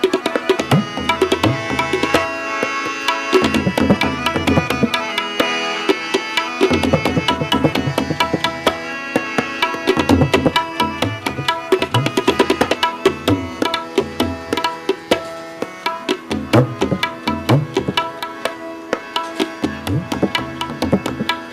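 Instrumental interlude of Sikh kirtan in Raag Malaar: tabla playing a fast run of strokes over sustained harmonium notes, with no singing.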